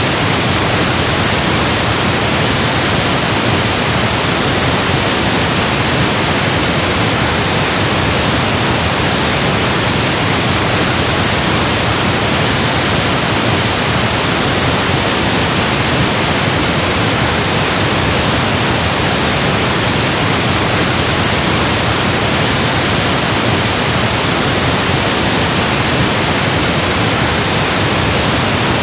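Electronically generated pink noise: a steady, even hiss across the whole range of pitch, unchanging throughout.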